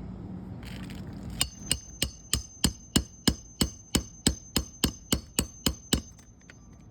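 Hand hammer driving a roofing nail into an asphalt shingle: about sixteen steady, even blows, roughly three a second, starting about a second and a half in, with a high metallic ring.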